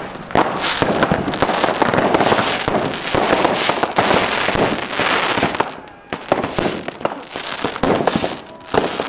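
Fireworks going off in rapid succession: dense crackling and popping with repeated bangs, easing off briefly about two-thirds of the way through before picking up again.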